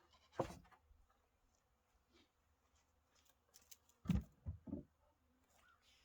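A single sharp knock, then a quick cluster of three dull thumps about four seconds later, against a faint low rumble.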